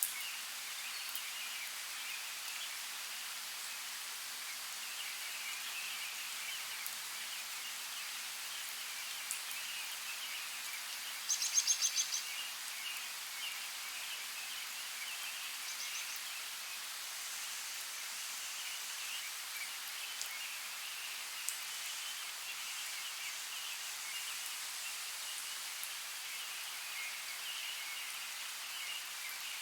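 Natural outdoor ambience: a steady high-pitched chorus, with one brief rapid bird trill about eleven seconds in and a few faint clicks.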